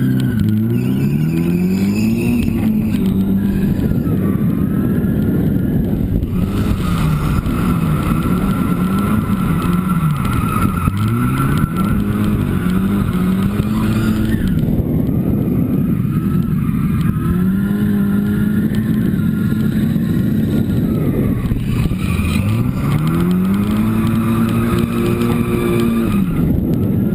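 Turbocharged SR20DET four-cylinder engine of a Nissan S13 drift car, heard from inside the cabin, revving up and down over and over as the car drifts, holding high revs for several seconds at a stretch. Tyres squeal through the slides.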